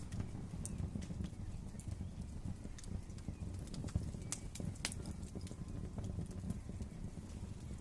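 Wood fire crackling in a fireplace: a steady low rumble of the flames with irregular sharp pops and snaps, one louder snap about four seconds in.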